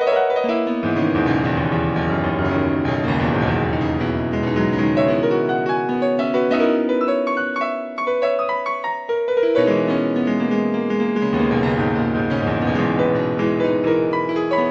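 Solo piano music: a slow passage of held chords and a moving melody, with a brief dip about eight seconds in.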